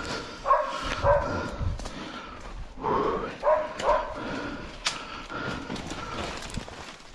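An animal giving short, repeated yelping calls, several a second at times, over rustling.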